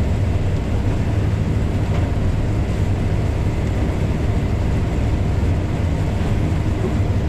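Combine harvester running steadily: a low, even engine drone.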